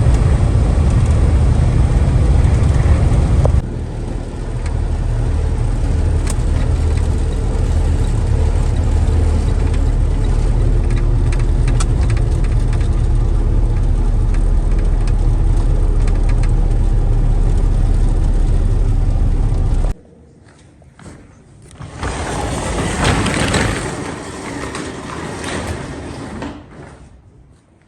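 Box truck's engine running with heavy low rumble and road noise, stopping abruptly about two-thirds of the way through. A few seconds of loud scraping, rustling noise follow and fade out.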